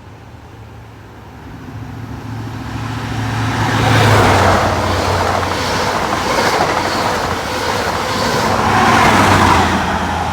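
A CrossCountry HST passing through at speed, led and trailed by Class 43 diesel power cars. The diesel drone builds and is loudest as the leading power car goes by about four seconds in, with wheel and rail noise from the coaches, then swells again as the rear power car passes near the end.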